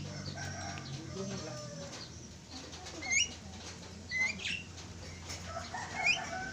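A pair of Javan mynas calling: short, sharp, rising notes at about 3, 4 and 6 seconds, with softer, lower chattering notes between them.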